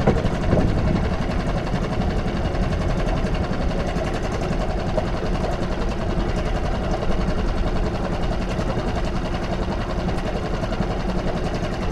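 Small boat engine running steadily with a fast, even chatter while manoeuvring to moor alongside another boat.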